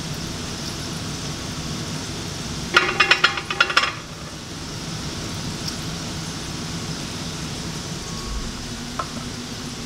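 Cut potato fries frying in hot oil, a steady sizzle. A short burst of rapid clattering comes about three seconds in.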